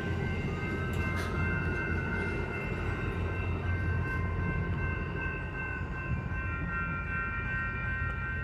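Amtrak passenger train rolling through a railroad crossing: a steady low rumble with several steady high ringing tones over it.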